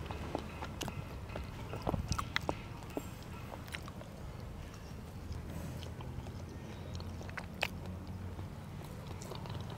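Close-up chewing and biting of food, with scattered light clicks of forks against plates.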